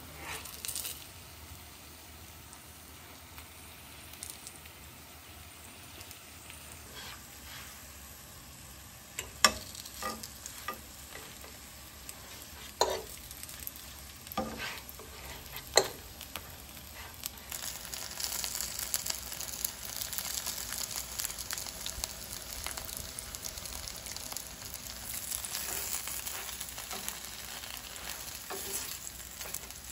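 Quesabirrias frying in birria fat in a nonstick skillet: a faint sizzle with several sharp clicks of a utensil against the pan in the middle, then a louder, steady sizzle for the last twelve seconds or so.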